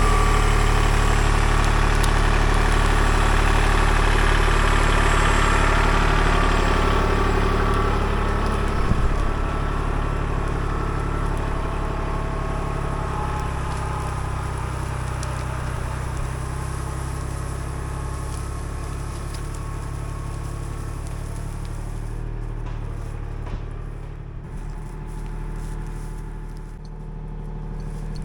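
An engine idling steadily, loudest at first and growing quieter after about eight seconds.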